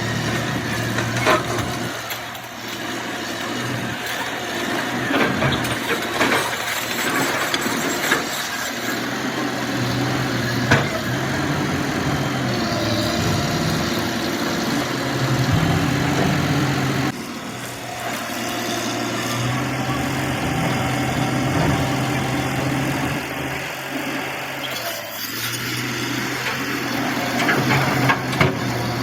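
Heavy vehicle engine running, its speed rising and falling, with scattered sharp knocks.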